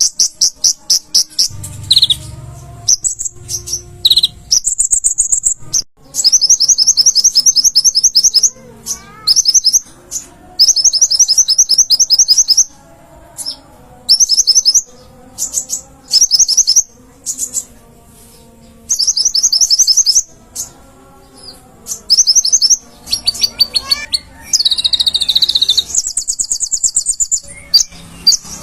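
Konin (kolibri ninja), a sunbird, singing in fast, high-pitched trilled runs of rapid notes, each lasting about one to two seconds and repeated with short pauses.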